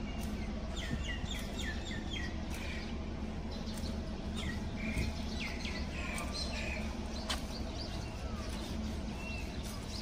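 Birds chirping: a run of quick, repeated falling notes about a second in, and more scattered calls a few seconds later, over a steady low hum.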